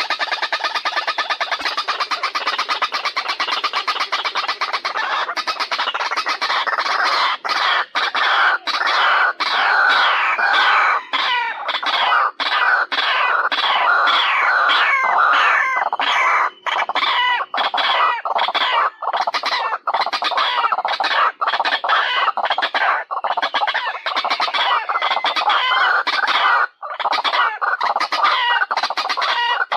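White-breasted waterhens calling: a loud, continuous run of rapid repeated call notes with only a few brief breaks.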